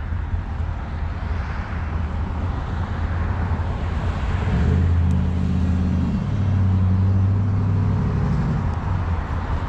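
Vehicles driving past with road noise. A deep, steady engine rumble comes in about halfway through and lasts almost to the end.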